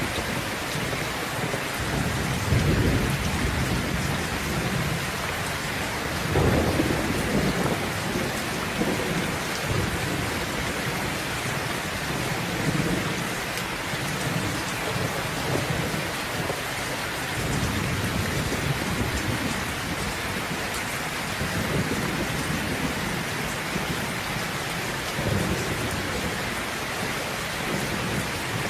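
Steady heavy rain hissing, with rolls of thunder rumbling low through it several times, the loudest about two and a half and six and a half seconds in.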